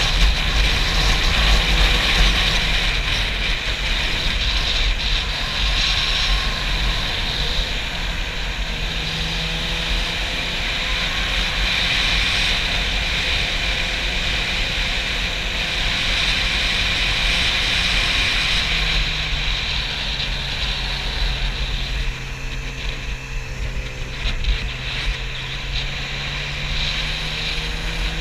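Heavy wind buffeting on the camera microphone over a Yamaha YZF-R6's inline-four engine running at road speed; the engine note drops lower about two-thirds of the way through.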